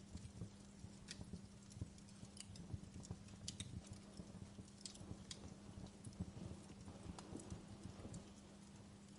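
Wood fire burning in a fireplace, crackling softly: irregular small pops and snaps over a low steady rumble.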